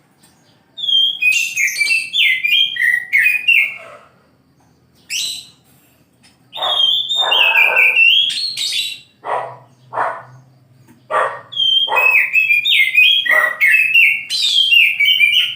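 Oriental magpie-robin (kacer) singing: three loud bursts of song, each a quick run of clear whistled notes stepping down in pitch, with a few short, harsher notes between the bursts.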